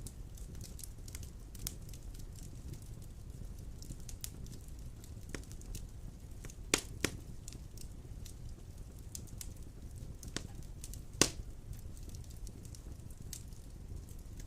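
Wood fire of large logs burning in a stone fireplace: a steady low rumble with frequent small crackles and three sharp pops, two in quick succession about seven seconds in and a louder one about eleven seconds in.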